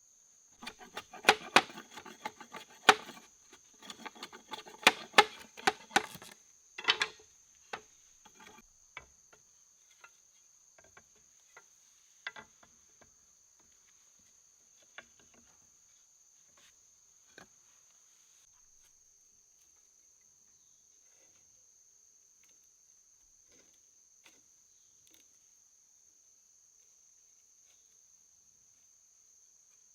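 Insects trilling in a steady high drone, with a flurry of sharp knocks and clatters in the first seven seconds that thin out to occasional clicks.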